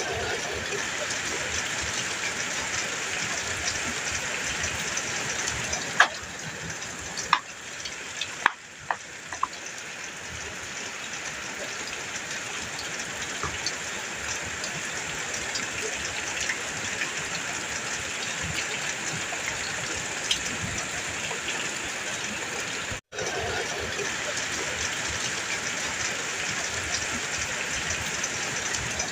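Heavy rain drumming steadily on a metal roof, with a few sharp louder drops or knocks between about six and eight and a half seconds in. The sound drops out for an instant about two-thirds of the way through.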